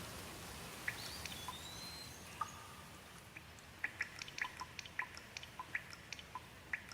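Rain falling lightly: irregular drips tick onto a surface over a soft steady hiss, with the drops coming faster from about four seconds in. A short whistled call, likely a bird, sounds about a second in.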